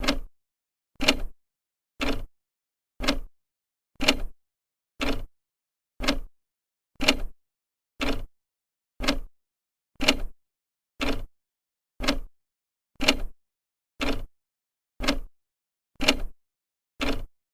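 An old clock's second hand ticking steadily, about one tick a second, each tick a short double click.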